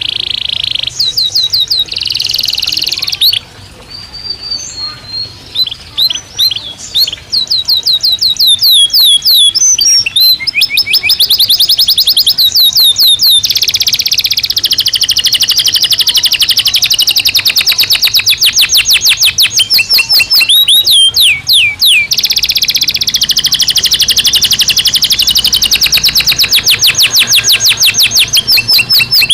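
Domestic canary singing: quick trills of repeated high notes, broken into short phrases at first, then running into long rolling trills lasting several seconds each from about seven seconds in.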